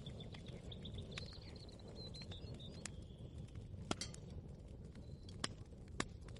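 Kitchen ambience soundscape: a steady low rumble with scattered sharp clicks and knocks, the loudest about four, five and a half and six seconds in, and a faint wavering high tone through the first half.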